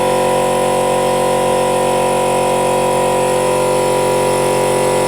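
A motor-driven pump running with a steady, unchanging drone, drawing old brake fluid out during brake bleeding.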